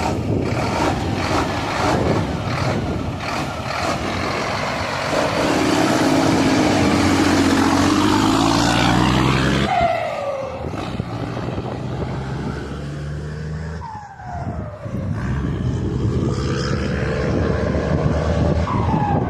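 Scania 420 truck engine pulling under load, with the whistle of its turbocharger fitted with a whistle comb ('pente'). The engine note climbs for several seconds, and the turbo whistle sweeps downward three times, about ten, fourteen and nineteen seconds in.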